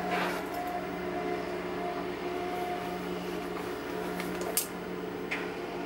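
Steady hum of a stationary commuter train's onboard equipment, heard inside the car with the doors standing open, with a short click a little past halfway through.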